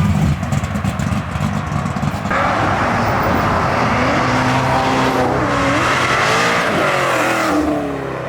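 Car engine revving and accelerating as a car drives off, its pitch rising and falling several times. The sound changes about two seconds in and eases off near the end.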